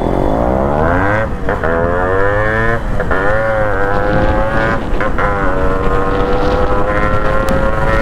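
Modified Yamaha RX-series two-stroke single-cylinder motorcycle with an aftermarket exhaust, accelerating hard: the revs climb and drop sharply three times as it shifts up through the gears, then it runs steady at high revs.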